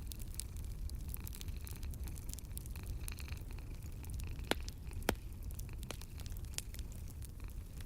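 Wood fire crackling in a fireplace: many small sharp crackles over a steady low rumble, with two louder pops about four and a half and five seconds in.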